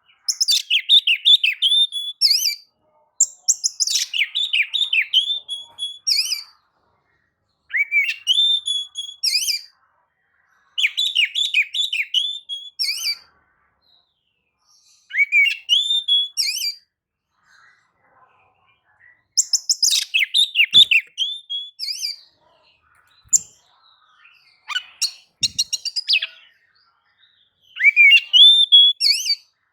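Oriental magpie-robin (kacer) in vigorous full song: loud, varied whistled and chattering phrases of two to three seconds each, repeated with short pauses between them.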